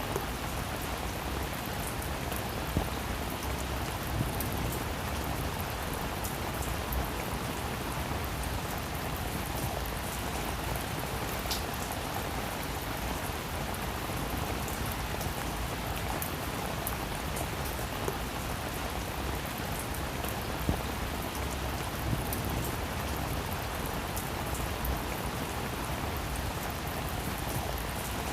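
Steady rain falling on a roof, an even hiss with individual drops ticking sharply here and there.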